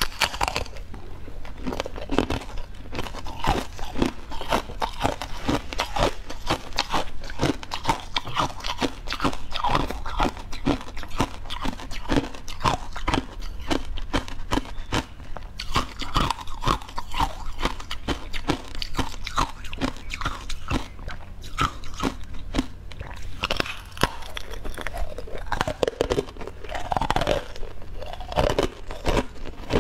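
Close-miked crunching and chewing: a person biting into and eating a crisp food, with a dense run of irregular crunches.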